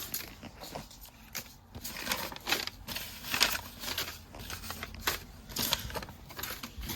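Irregular handling noise: rustling and crinkling with scattered light clicks, a few louder than the rest.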